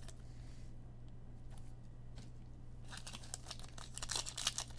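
Foil trading-card pack wrapper crinkling and tearing as it is opened, starting about three seconds in and growing denser; before that only a faint steady hum.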